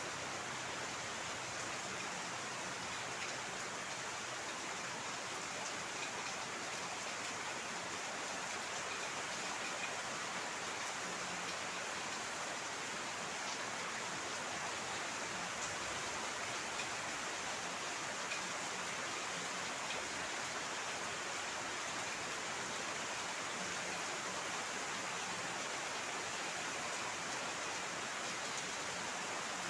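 Heavy rain falling steadily: an even hiss that holds at the same level throughout, with no let-up.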